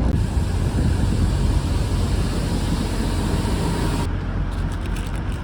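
Steady low rumble of a semi-truck's diesel engine running, with wind hiss on the microphone. About four seconds in the hiss drops away and a few faint clicks follow.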